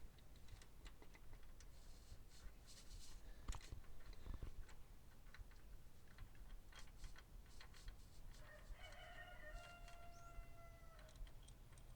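A rooster crowing once, one drawn-out call about two and a half seconds long, starting about eight seconds in. Under it, faint scattered clicks and taps of hand tools on the truck's adapter bolts.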